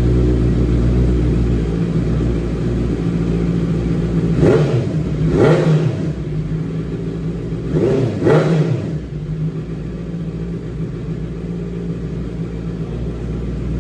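2025 Honda CBR650R's inline-four, fitted with an IXIL RC3B full aftermarket exhaust system, idling and then revved in four quick throttle blips in two pairs around the middle. Each blip rises and falls in pitch, and the engine settles back to a steady idle.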